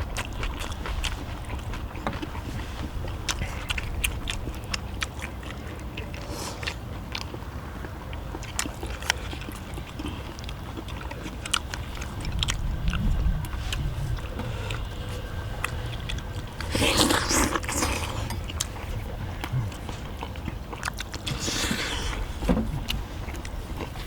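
People eating cheese dak-galbi: chewing, with frequent light clicks of chopsticks and spoons against the pan, over a steady low rumble. Two louder rushing noises stand out in the second half.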